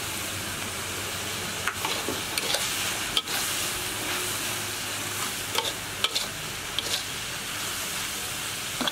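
Silkworm pupae sizzling as they fry in a hot wok, stirred with a spatula that clicks and scrapes against the pan several times.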